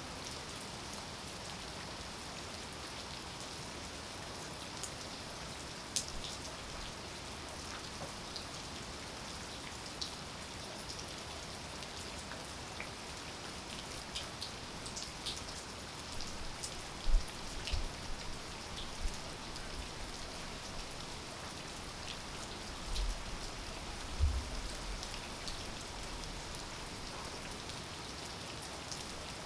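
Steady rain falling, with individual drops ticking sharply close by over an even hiss. A few louder low thumps come about halfway through and again near the end.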